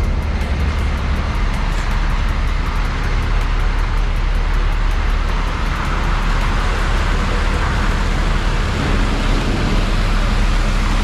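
Dump truck engine running with a steady low rumble.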